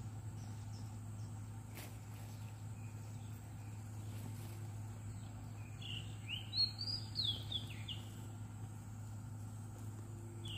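A bird calling in a quick run of short whistled notes that rise and fall, about six seconds in, with more starting near the end, over a steady low hum.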